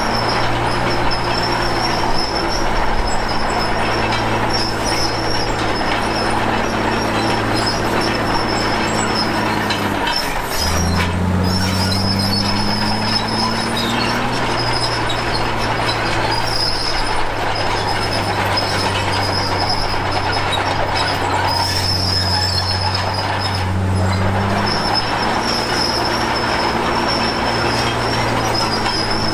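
Komatsu D53P crawler bulldozer working: its diesel engine runs under load while the tracks give off a steady high squeal. About ten seconds in the engine dips, then climbs in pitch over a few seconds.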